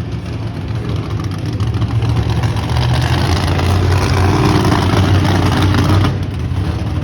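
Monster truck engine running loud and hard during a wheelie run, a steady deep drone that swells and then drops briefly about six seconds in.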